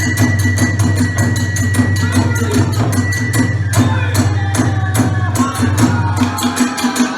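Kagura hayashi music: drums and metal hand cymbals keep a quick, even beat. A flute holds one high note for the first half, then plays a sliding melody.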